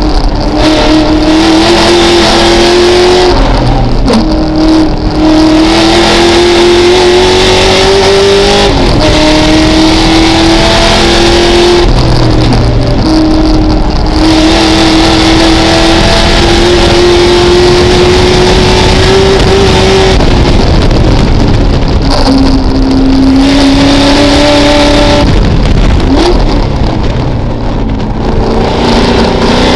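Ford Mustang race car's engine running hard at high revs, heard from inside the cabin. Its pitch climbs steadily through each gear and drops sharply at every shift, several times over, with one longer fall and pickup about two-thirds of the way through as it brakes for a corner and accelerates out again.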